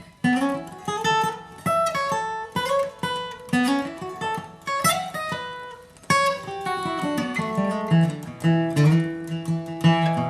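Acoustic guitar playing a flatpicked bluegrass lead line, single picked notes in a quick run with slides up into some of them, settling onto lower held notes near the end.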